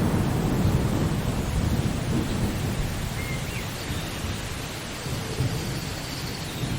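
Steady heavy rain with a low rolling rumble of thunder that is loudest at the start and fades over the first few seconds.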